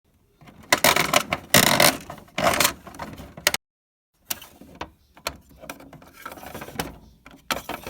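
Small plastic toys and props being handled and moved about: a run of clattering, scraping and clicks, broken once by a sudden short cut to silence.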